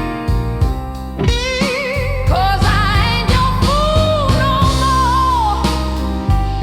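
Slow blues music: a guitar plays a lead line of held, wavering bent notes over a steady bass and beat.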